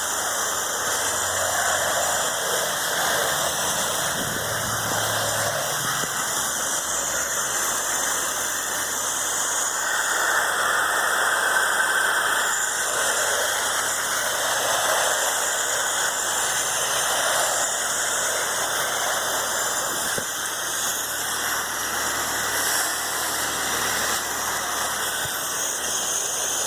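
Pressure washer running steadily, its motor and pump droning under the hiss of the wand spraying at low pressure to put soap solution on house siding.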